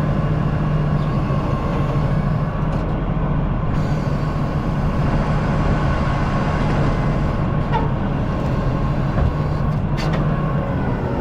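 Excavator's diesel engine running steadily at working speed, with a couple of faint clicks or knocks near the end.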